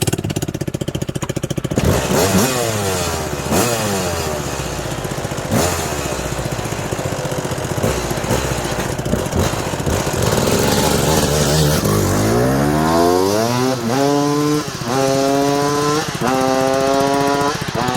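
1996 Suzuki RM250's single-cylinder two-stroke engine idling, then revved in a series of throttle blips, then pulling hard through the gears: the pitch climbs and drops back sharply about once a second at each upshift.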